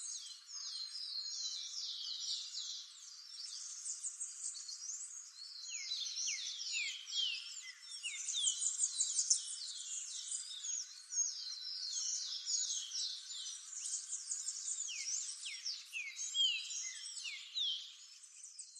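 A dense chorus of many small birds calling at once: quick, high, down-slurred chirps that overlap continuously.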